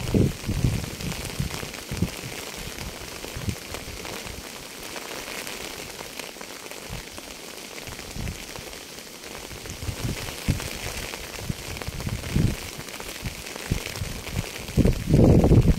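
Rain falling steadily: an even hiss of drops with scattered low thuds. A louder, deeper rumble starts near the end.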